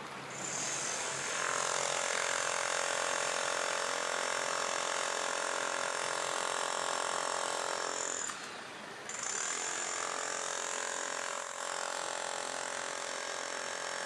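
Cicadas buzzing steadily, with a short dip about eight seconds in.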